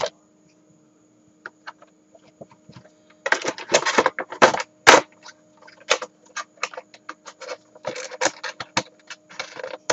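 A toy train's packaging being opened by hand: plastic and cardboard rustling and scraping in short irregular bursts, with many sharp separate clicks.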